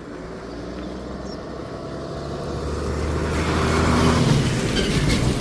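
A large motorhome driving past, its engine growing steadily louder as it approaches and passing closest about four seconds in, with tyre noise.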